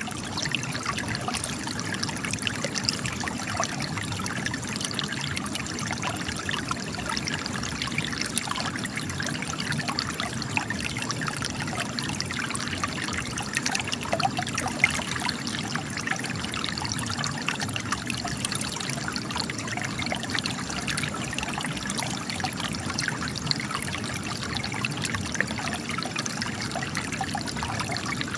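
Spring water trickling and splashing steadily as it flows out of cracks in rock.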